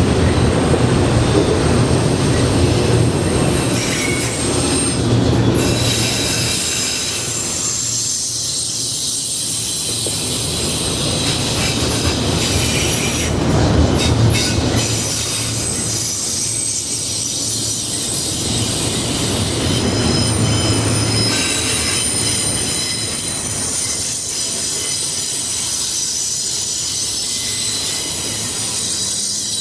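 Freight train cars rolling past, wheels rumbling on the rails with high, steady wheel squeal throughout.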